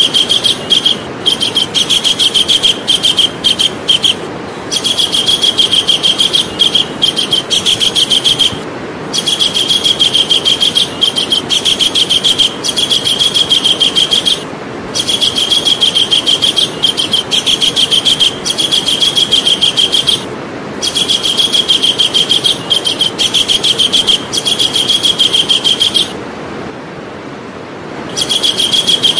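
Javan kingfisher calling: long runs of rapidly repeated high notes, each run lasting a few seconds with short breaks between them, and a longer pause near the end.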